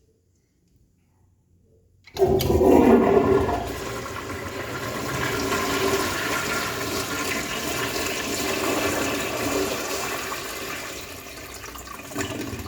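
Vintage 1969 American Standard Glencoe fixture being flushed. After about two seconds of quiet, the water rushes in suddenly and is loudest at first. It then runs steadily and tapers off near the end.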